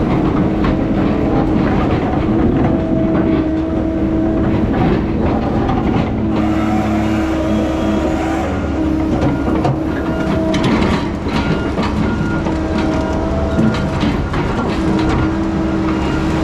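Heavy diesel logging machinery running, with a steady engine drone, pitched tones that come and go in stretches, and repeated metallic clanks and rattles.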